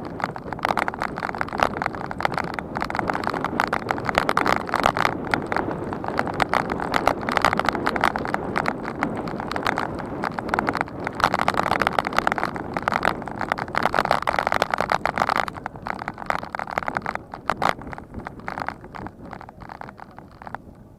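A bicycle clattering and rattling as it rides over rough ground: a dense, irregular run of knocks that thins out and gets quieter after about fifteen seconds.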